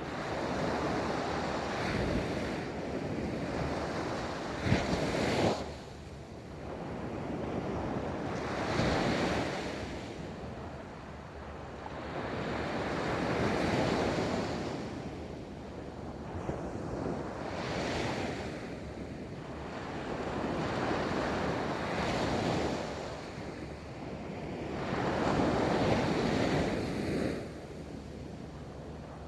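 Ocean waves rolling onto a beach, breaking and washing up in swells every four to five seconds, one sharper crash about five seconds in, with wind noise on the microphone.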